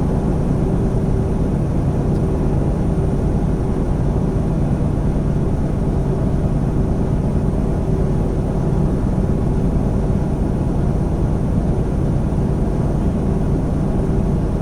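Inside a semi truck's cab at highway speed: the steady drone of its diesel engine and road noise, with a steady hum.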